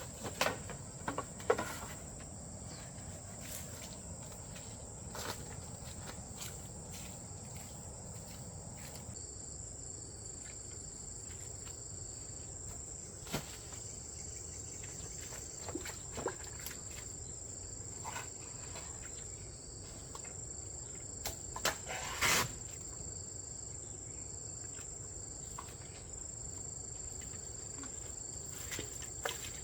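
Insects chirring in a steady high-pitched drone, with scattered knocks and taps over it, the loudest about 22 seconds in.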